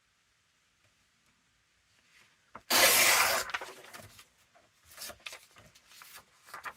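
Paper being handled: a loud rub or rustle of paper sliding across the work surface a little under three seconds in, then softer rustles and light taps.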